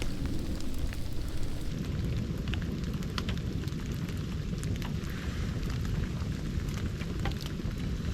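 Large wood campfire burning in light rain: a steady low rush with scattered sharp crackles and pops.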